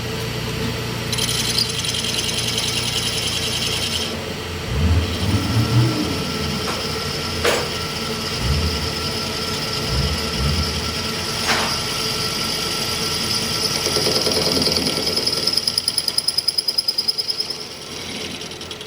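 Machine-shop power tools running steadily, with two sharp metallic clicks in the middle and a fast rattling stretch near the end.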